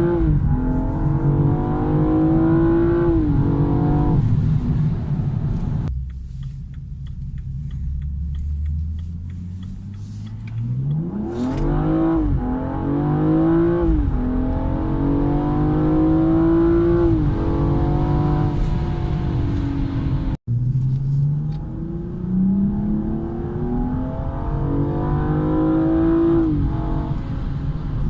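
BMW M235i's turbocharged inline-six accelerating hard through the gears, its pitch climbing and dropping back at each upshift. There are three separate pulls, with a lower, steadier drone between the first two.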